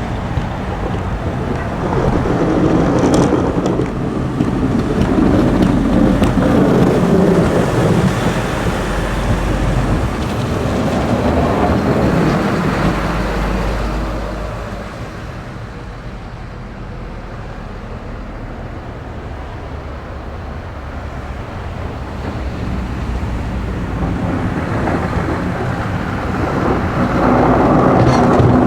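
Heavy snow-plow trucks driving past while plowing, a loud rushing noise over a low diesel rumble that rises and falls as each truck goes by, with a quieter lull in the middle and the noise building again near the end.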